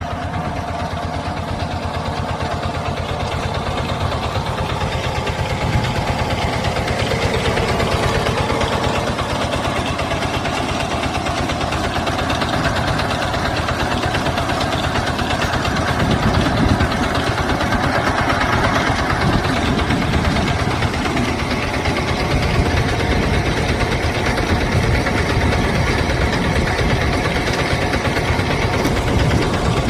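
Engine of a YBM well-drilling rig running steadily, with a fast, even low pulsing, while drilling a water well.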